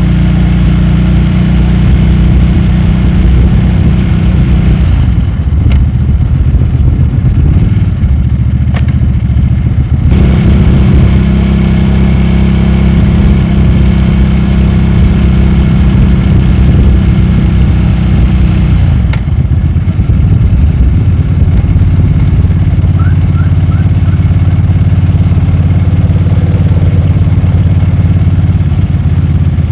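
Motorcycle engine running under way, steady and loud, its note dropping off about five seconds in, picking up sharply around ten seconds, and dropping again around nineteen seconds.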